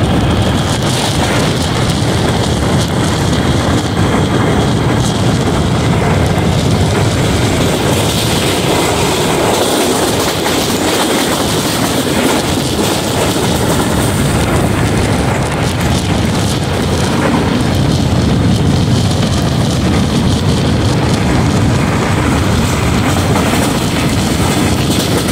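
Passenger train running at speed, a loud steady rush of wheel-on-rail and wind noise.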